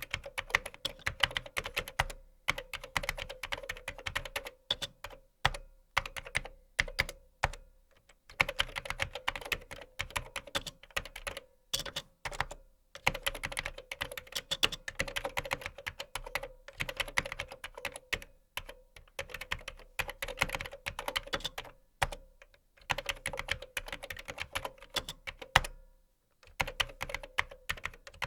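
Typing on a computer keyboard: fast runs of keystroke clicks broken by short pauses every few seconds.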